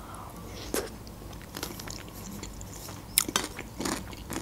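Close-miked eating sounds: a mouthful of broccoli cream soup being chewed, with soft wet mouth clicks and a few sharper clicks about three seconds in.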